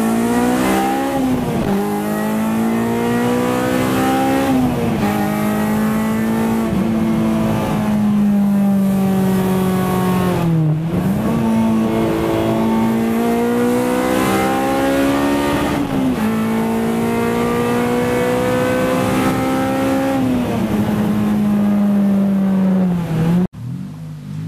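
Honda K20 inline-four in a Civic EG, accelerating hard through the gears. The engine note climbs steadily and drops at each upshift, about five times, and cuts off suddenly near the end.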